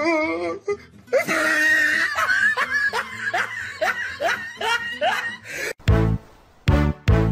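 A person laughing in a run of short repeated bursts. Music with a strong beat cuts in near the end.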